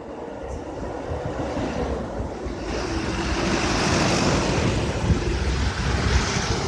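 A vehicle passing close by on the road, its tyre and road noise swelling for a few seconds and then easing off, over wind rumbling on the microphone.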